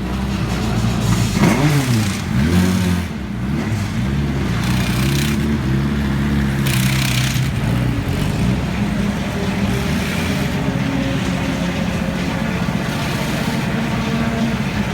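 Small race car's engine revved up and down a couple of times in the first few seconds, then running at a steady speed.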